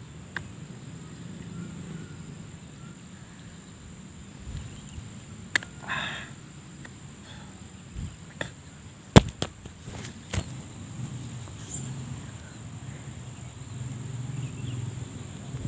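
Scattered sharp clicks and crunches, the loudest about nine seconds in, as a crispy-fried rubber flip-flop is bitten and handled, over a steady high whine.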